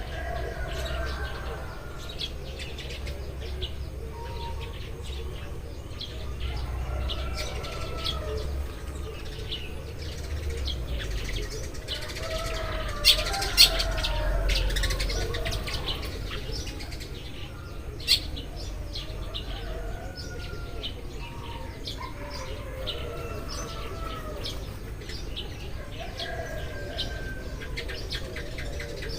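A flock of Eurasian tree sparrows chirping continuously in many overlapping short calls. A few sharp, loud clicks stand out around the middle.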